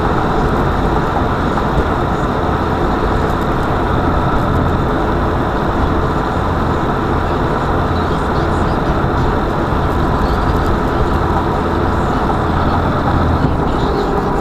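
Steady running noise of a car being driven, engine and road noise together, with a low hum underneath.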